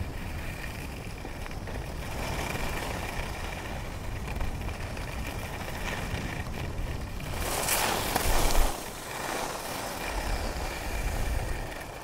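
Skis sliding and scraping over snow, with wind rushing over the microphone; a louder scraping swish comes about eight seconds in.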